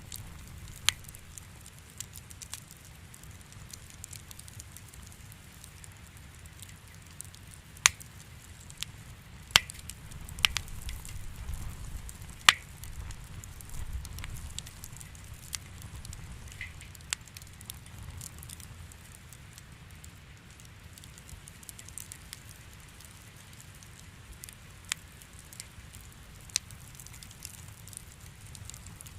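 Wood fire crackling in a fireplace, with sharp, irregular pops every second or few over a low, steady rumble of burning; the rumble swells a little around the middle.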